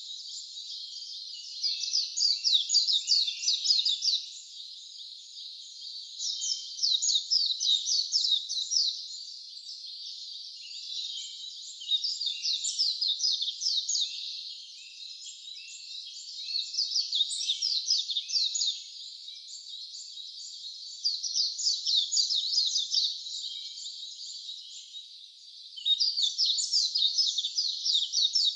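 Wild songbird singing repeated bursts of rapid, high, falling notes, each burst about two seconds long and coming every four or five seconds, over a steady high hiss.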